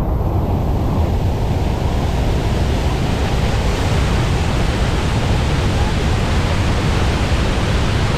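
Steady rush of a large waterfall, the American Falls at Niagara: a loud, even wash of falling water.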